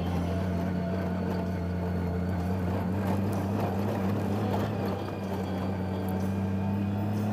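Motorcycle engine running steadily at low speed, a constant even hum, with a scatter of small knocks and rattles from riding over a rough road surface.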